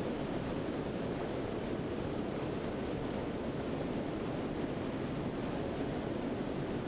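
Steady rushing wind and engine noise aboard a C-130 aircraft in flight, an even roar with no change in level.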